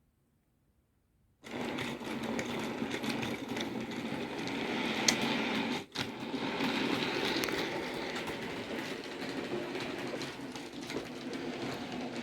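OO gauge model train running on the layout: a steady electric motor whir with wheels clicking over the track, starting abruptly about a second and a half in and dropping out for a moment near the middle.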